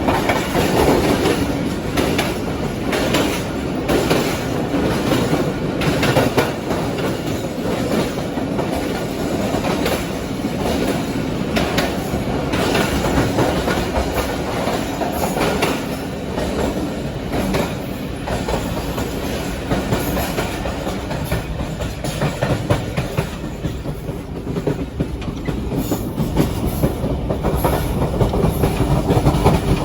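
Train running along the track: a steady rumble of the carriages with a clickety-clack of wheels over rail joints and short clatters all through.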